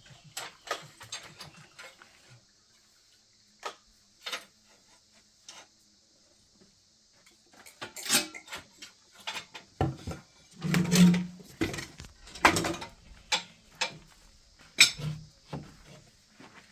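Irregular clinks and knocks of hard objects being handled, a few at first and then a busier run in the second half.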